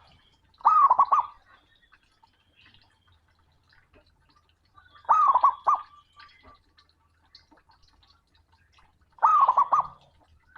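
Male zebra dove (perkutut) giving its loud cooing call to challenge a rival. Three short phrases of quick, rolling coo notes come about four seconds apart.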